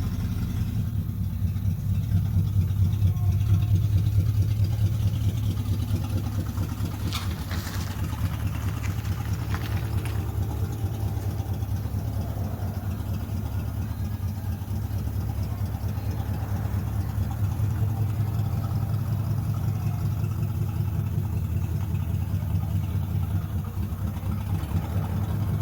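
Engine running steadily at idle, with a couple of light clicks about seven seconds in.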